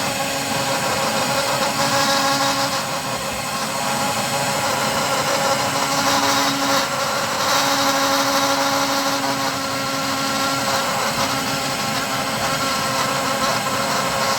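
A motor running steadily with an even, pitched hum.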